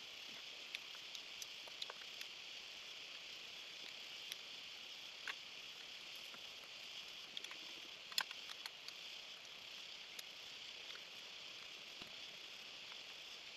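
Faint steady high-pitched drone of rainforest insects, with scattered small clicks and taps; the sharpest click comes about eight seconds in.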